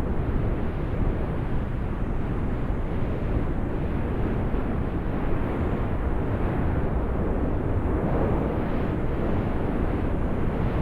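Steady rush of river water, a low, even rumble with no breaks.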